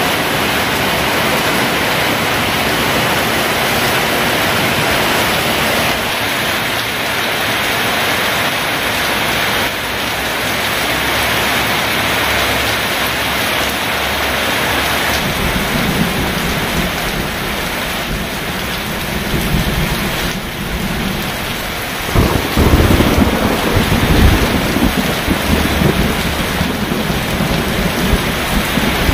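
Heavy rain pouring steadily, with thunder rumbling in from about halfway through and a loud, long roll of thunder starting about 22 seconds in.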